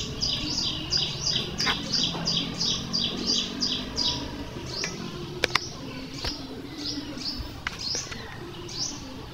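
A small bird chirping over and over in short high notes, about three to four a second for the first few seconds and then more sparsely. A few sharp clicks of a metal spatula against an aluminium wok come as the stir-fry is mixed.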